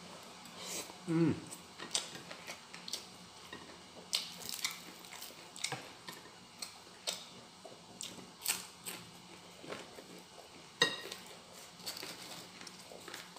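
A man chewing a mouthful of fried fish and rice close to the microphone: irregular wet smacks and clicks of lips and tongue. A brief hummed sound comes about a second in, and one sharper click near the end.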